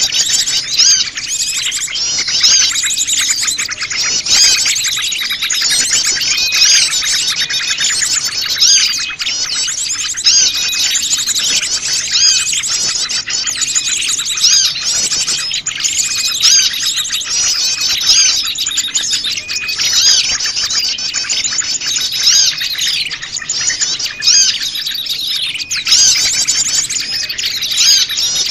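A noisy chorus of many small wild birds chirping and trilling at once, the calls overlapping without a break. It is a lure recording meant to draw small birds in.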